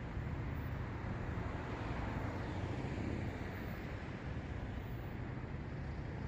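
City road traffic: the steady hiss and rumble of cars driving by, with a slight swell about two seconds in.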